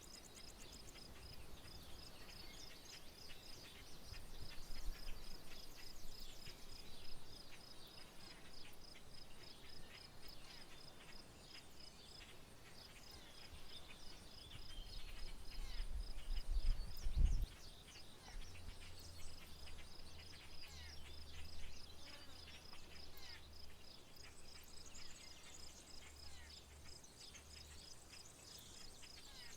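An insect trilling steadily in a fast, even pulse, with scattered bird chirps over it. A low rumble swells twice and the second one cuts off suddenly past the middle.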